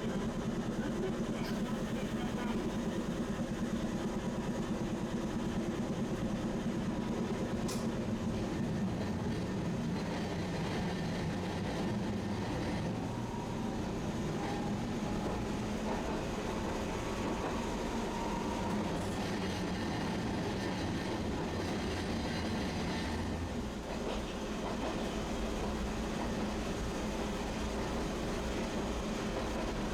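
Tosaden Kōtsū streetcar running along its rails, with a steady rumble of wheels and motor.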